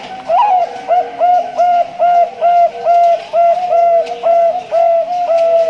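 Male zebra dove (Bangkok-type perkutut) singing its cooing song: a rapid run of short, evenly spaced coos, about three a second, opening with a rising note.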